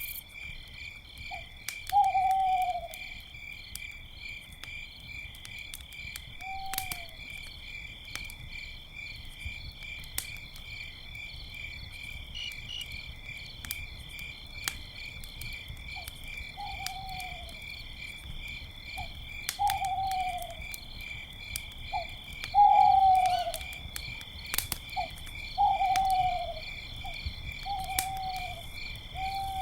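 Owl hooting in short calls that fall in pitch, about a dozen spread through, over a steady pulsing chirp of crickets and the sharp snaps of a crackling campfire.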